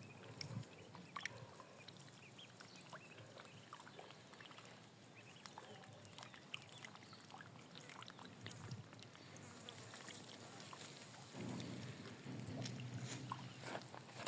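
Faint water splashing and trickling around swimming ducks, with scattered small clicks. A low drawn-out sound joins in for a couple of seconds near the end.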